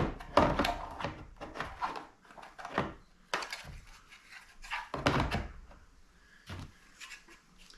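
Knocks, clunks and rattles of a mini chainsaw kit's parts being handled and set into a hard plastic storage case. There is a dozen or so separate knocks, bunched in the first three seconds and again around five seconds in, and the loudest is at the very start.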